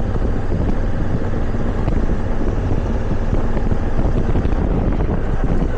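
Adventure motorcycle running steadily under way on a dirt road, its engine drone mixed with wind rushing over the microphone.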